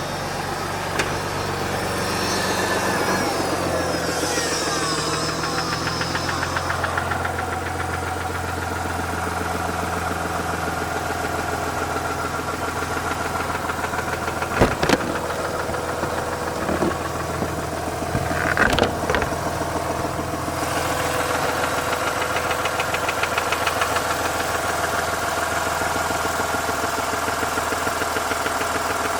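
Mazda RX-8's Renesis twin-rotor rotary engine running with a repeating knock, which the owner places at the rear end of the engine or the clutch and doubts is the SSV. A few sharper clicks stand out about halfway through and again a few seconds later.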